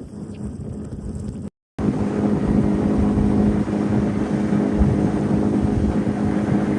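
Low rumbling noise for about a second and a half. Then, after a brief cut, a boat motor runs steadily with an even drone.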